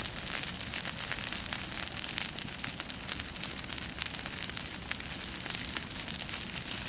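Wood bonfire crackling, a dense run of small pops and snaps.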